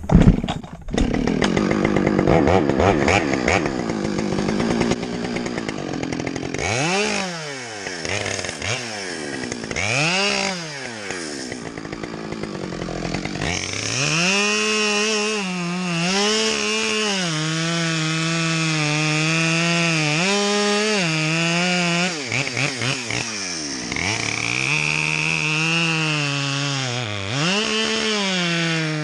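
Gas chainsaw revving up and down a few times, then held near full throttle through long cuts into wood, with brief dips in speed.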